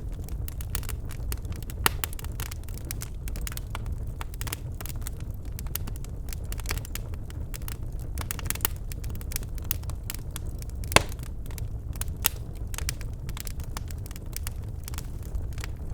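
Birch logs burning in a fireplace: a steady low rumble of flame with constant crackling and a few louder sharp pops, the loudest about eleven seconds in.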